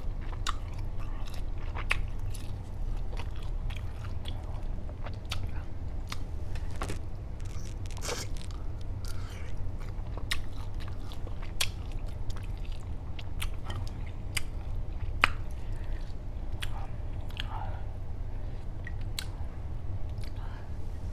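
Close-miked biting and chewing of jumbo shrimp in sauce, with wet mouth clicks and smacks at an uneven pace, over a steady low hum.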